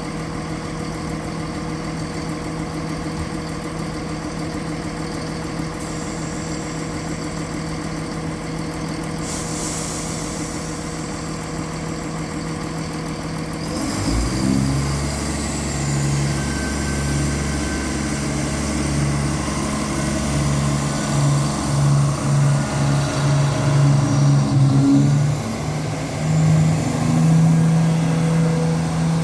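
The underfloor diesel engine of a Class 170 Turbostar unit idles with a steady note. About halfway through, its note dips and changes, and it runs louder and lower, swelling and fading in a rough beat about once a second.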